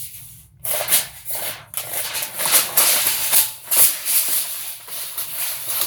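Steel blade of a Craftsman 25-foot tape measure rattling and scraping against its case as it is run in and out, with many quick clicks.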